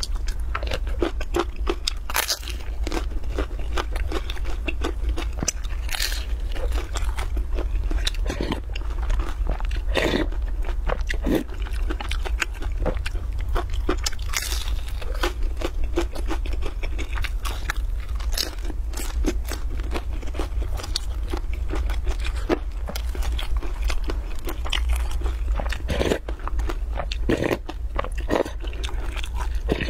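Close-miked chewing and crunching of crisp pan-fried scallion flatbread, with irregular crackly bites and wet mouth sounds throughout, over a steady low hum.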